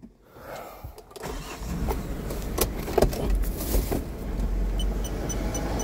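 A vehicle's engine starts up and runs with a steady low rumble, with scattered clicks and knocks. Near the end a rapid, evenly spaced electronic beeping begins.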